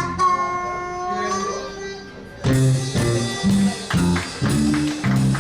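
Blues band playing the song's ending: a held, bending note that fades over the first two seconds, then a run of short accented band hits with bass and drums.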